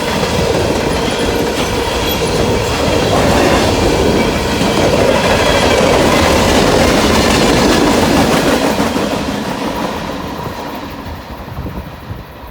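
Train passing close by at speed, a loud steady rush of wheels on rail that fades away over the last few seconds as the end of the train goes by.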